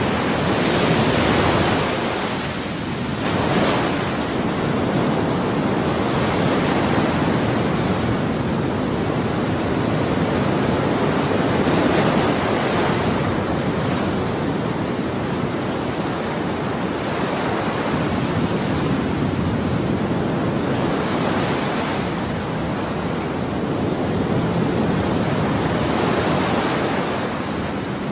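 Ocean waves breaking and washing on a shore, a continuous rushing surf that swells every few seconds.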